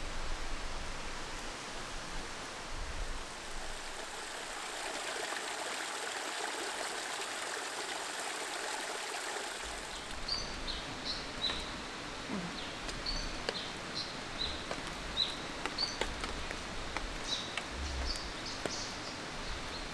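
Steady rushing sound of running water. About halfway through, a bird starts calling in a run of short, high chirps repeated every second or so.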